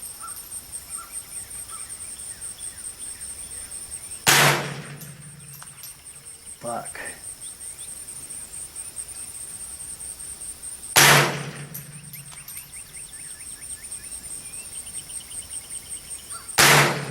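Three single shots from a Smith & Wesson M&P 15-22 .22 LR rifle, each a sharp crack with a short fading tail, spaced about six seconds apart.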